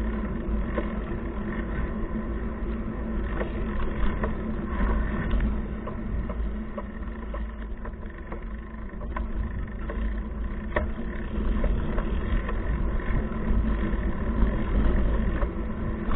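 Steady low rumble of wind and road noise on a handlebar-mounted action camera as the bicycle rolls along, starting abruptly, with a few faint clicks.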